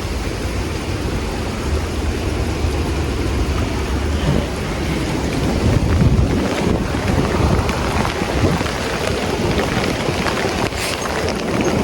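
Storm wind gusting with heavy rain, the wind buffeting the phone's microphone with a low rumble; the gusts swell about four seconds in.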